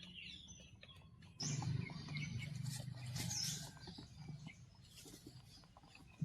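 Birds chirping in short high calls, with a low steady hum that comes in suddenly about a second and a half in.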